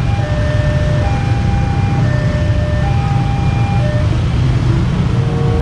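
KRL Commuter Line electric train standing at the platform with a loud, steady low rumble. Over it, a two-note tone alternates about once a second.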